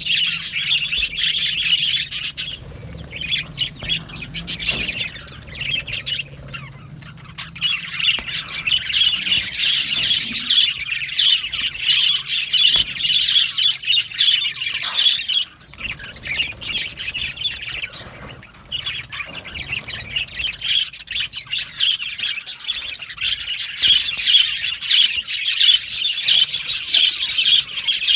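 A flock of budgerigars chattering: many overlapping chirps, warbles and squawks, easing off briefly a few times before building up again.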